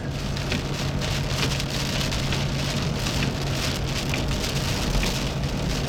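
Steady rain hitting a car's roof and windshield, heard from inside the cabin as a dense patter of drops, with a steady low hum underneath.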